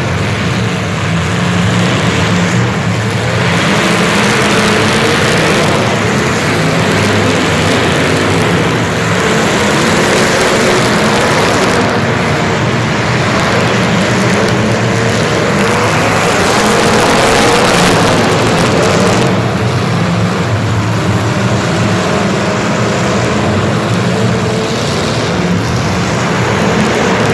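Loud, steady motor-vehicle engine noise with a wavering pitch.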